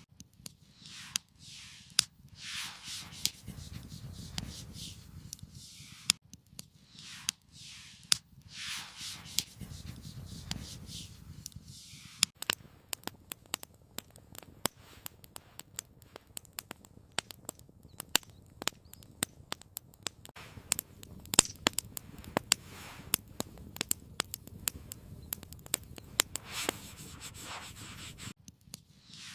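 Soft rubbing and scraping handling noises for the first dozen seconds, then a wood campfire crackling with many sharp, irregular pops.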